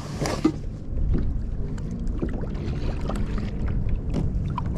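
Wind rumbling on the microphone and choppy water lapping against a kayak hull, with scattered small knocks and clicks. There is a brief louder rustle right at the start.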